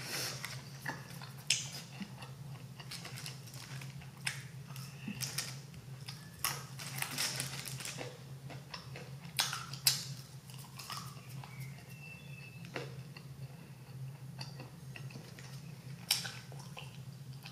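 Close-miked chewing of a burger and french fries, with scattered wet mouth clicks and smacks. A steady low hum runs underneath.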